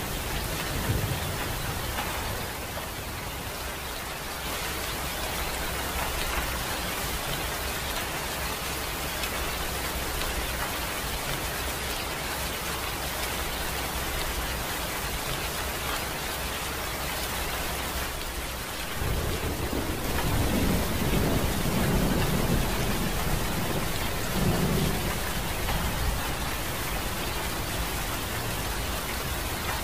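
Steady rain falling, with a low rumble of thunder that swells about two-thirds of the way through and lasts several seconds.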